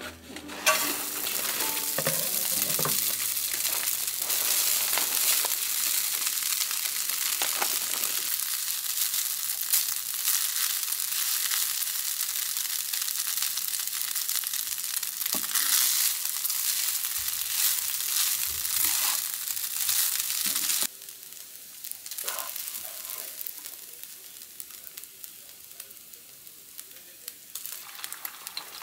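Kimchi fried rice sizzling hard in a nonstick frying pan, with occasional knocks as it is stirred. About two-thirds of the way through, the loud sizzle cuts off sharply and a quieter frying of eggs in the pan takes over.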